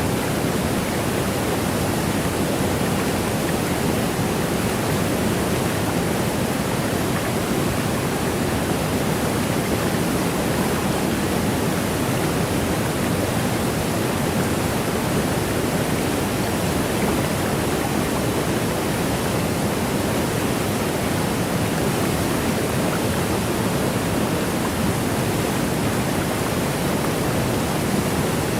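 Waterfall: the steady rush of water falling, an even, unbroken roar with no separate splashes or changes.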